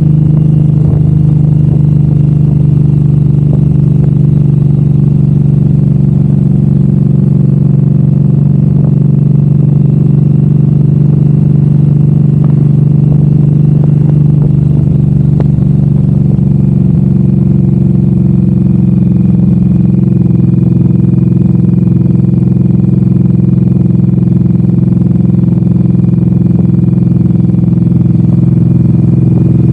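Suzuki Boulevard M109R's big V-twin engine running steadily under way at a cruising speed. Its pitch drops slightly about two-thirds through.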